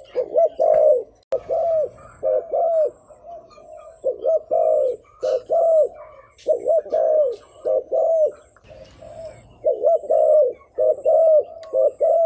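Spotted dove giving its gù call: a rapid run of short, arched coos in clusters of two to four, with brief gaps between the clusters.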